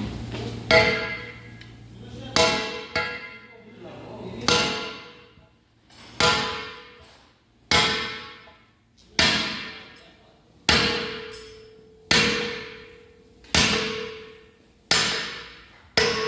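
Hammer blows on steel during excavator bushing replacement, about a dozen evenly paced strikes roughly one and a half seconds apart. Each blow rings and fades over about a second.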